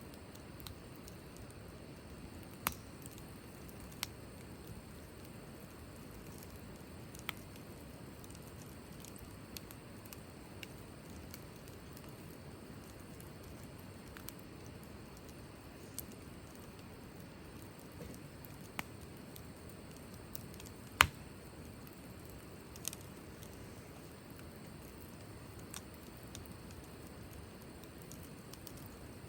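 Wood campfire burning: a low steady hiss with sparse, irregular sharp crackles and pops, one much louder pop about two-thirds of the way through.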